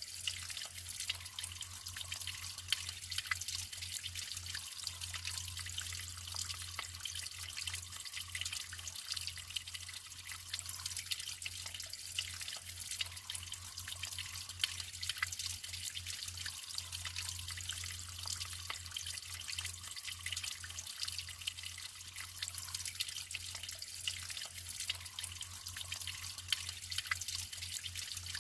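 Natural running water trickling and splashing steadily, dotted with many small drips and plops.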